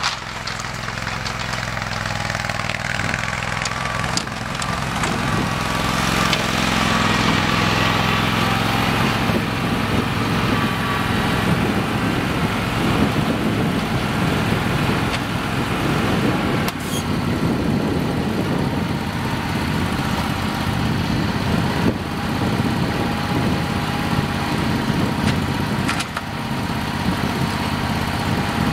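Simplicity Legacy garden tractor engine running steadily, getting louder a few seconds in, with a few faint knocks later on.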